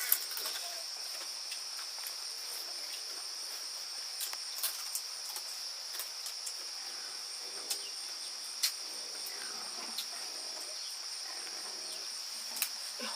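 Steady high-pitched insect chorus, crickets trilling without a break, with a few scattered sharp clicks or snaps.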